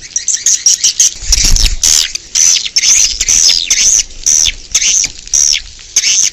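Edible-nest swiftlets calling, as in a swiftlet-house lure recording: rapid, repeated high chirps that fall in pitch, several a second. There is a brief low rumble about a second in.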